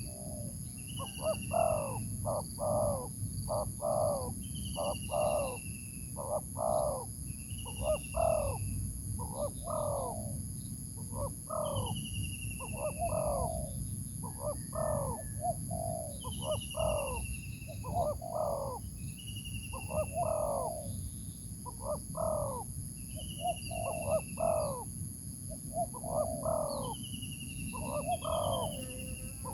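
Birds calling back and forth in a lure-trapping duel between a decoy bird and a territorial wild bird. The main calls are low double notes repeated about once a second, with a thin falling whistle every couple of seconds. A steady high insect drone runs underneath.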